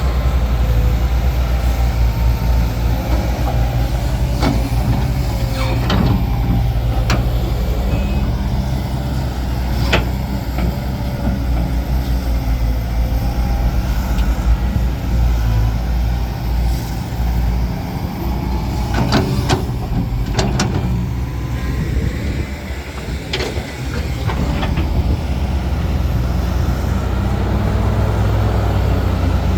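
Heavy diesel earthmoving machinery running steadily under load, with sharp metallic clanks now and then and a cluster of them about two-thirds of the way through.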